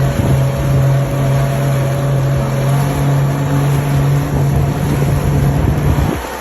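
Jet ski engine running steadily under way, a loud low hum mixed with wind and water noise, dropping off sharply near the end.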